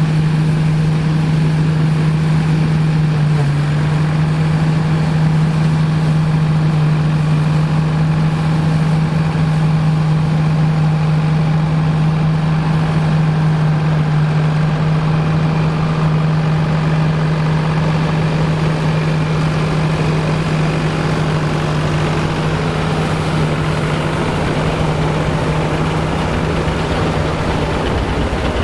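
A vintage farm machine's engine running steadily at constant speed, with a strong steady hum.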